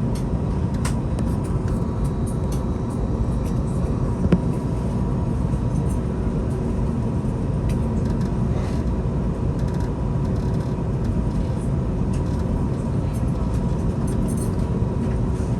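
Steady cabin rumble of an Airbus A321neo taxiing, its engines at idle, with a faint steady whine over it and a single click about four seconds in.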